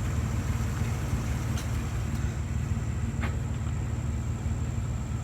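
Truck engine idling steadily, a low even rumble, with a faint click or two.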